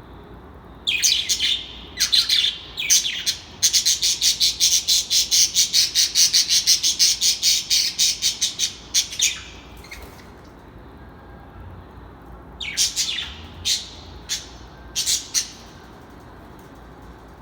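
A bird calling: a few short calls, then a fast run of repeated high notes at about five a second for several seconds, then a few more short calls near the end.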